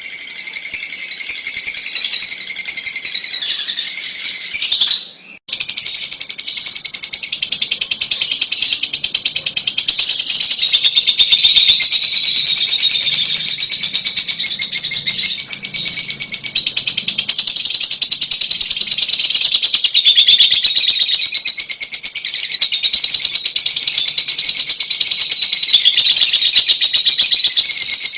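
Fischer's lovebird song: a fast, unbroken stream of high-pitched chattering twitters and trills, cut by a brief gap about five seconds in.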